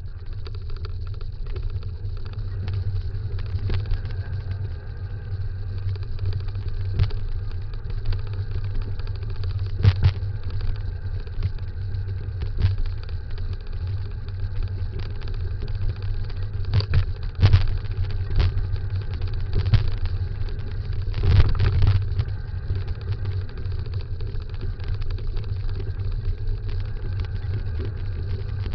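Dog scooter rolling fast along a dirt trail: a steady low rumble from the wheels, with scattered knocks and rattles from bumps in the track.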